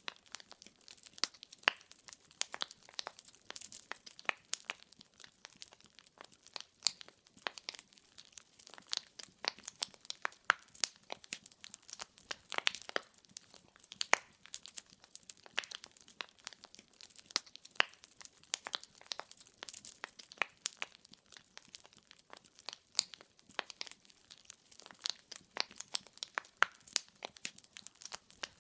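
Firewood logs crackling and popping as they burn in a fireplace: a dense, irregular run of sharp snaps over a faint hiss, with no music or other sound.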